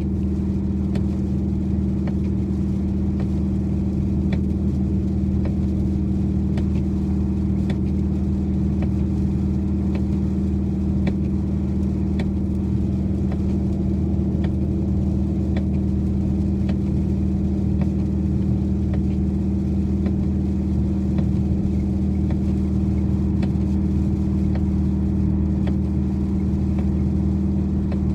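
2012 Dodge Challenger R/T's 5.7-litre Hemi V8 holding a steady cruise, an even low drone that neither rises nor falls, with scattered faint ticks over it.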